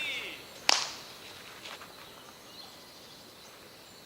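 A single sharp crack about a second in, a baseball striking a bat or glove, over quiet outdoor background.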